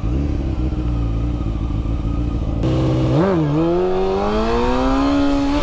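Honda CBR600F3's inline-four engine running steadily, then the throttle opens suddenly about two and a half seconds in. The pitch dips briefly, then climbs steadily as the bike accelerates.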